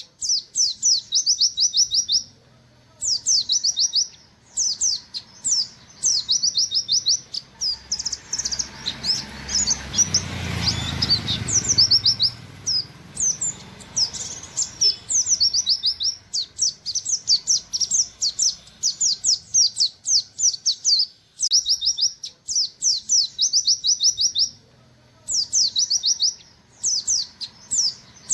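Buxtoni white-eye (pleci) singing in 'nembak' style: rapid runs of sharp, high 'wit wit' notes repeated in quick succession, broken by brief pauses. A low rumbling noise rises and fades between about 8 and 12 seconds in.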